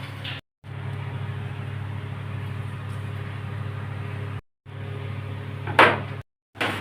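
Steady low mechanical hum, like a running motor. The sound cuts out to silence twice, and there is a sharp knock near the end.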